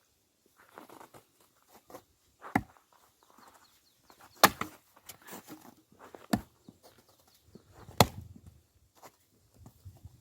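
Axe splitting firewood logs: four sharp chopping strikes about two seconds apart, the loudest about four and a half and eight seconds in, with softer scuffs of wood being handled between them.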